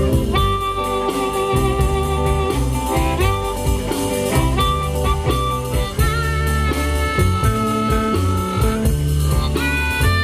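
Live blues band playing an instrumental intro: a lead guitar playing held, wavering notes over bass and drums.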